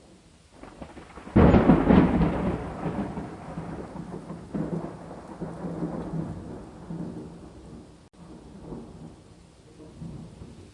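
A thunderclap over rain: a sudden loud crack about a second and a half in, then a long rolling rumble that swells again a few seconds later and slowly fades away.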